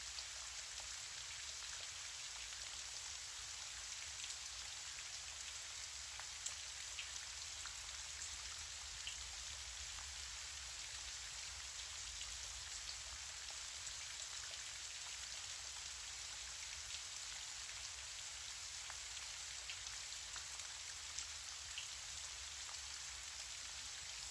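Gentle rain falling steadily: an even soft hiss with scattered single drops ticking here and there.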